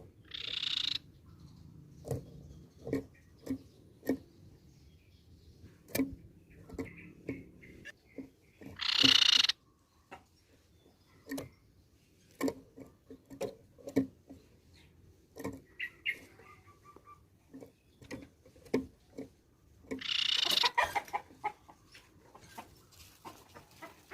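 Crescent-chested babbler calling: three loud, harsh, hissy bursts (near the start, about nine seconds in and about twenty seconds in) with a few faint short calls between them. Many sharp taps or knocks sound throughout.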